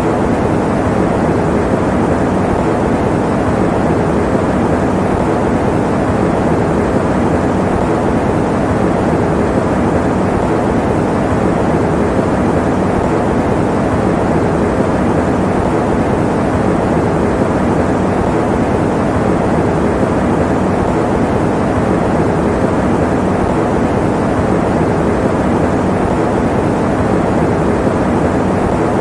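Electric fan running: a steady, unchanging rush of air noise, mostly low and mid-pitched with little hiss.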